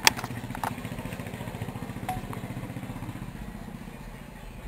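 An engine idling steadily with a low, even pulsing rumble. A sharp click sounds right at the start.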